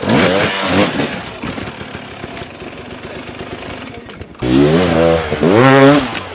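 Dirt bike engine revving in bursts, its pitch rising and falling: one rev in the first second, then a sudden loud rev about four and a half seconds in that climbs in pitch and drops away.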